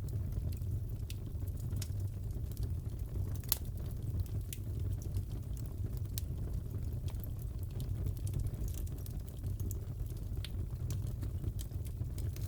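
Crackling fireplace: a steady low rumble of burning wood with scattered sharp crackles and pops, one louder pop about three and a half seconds in.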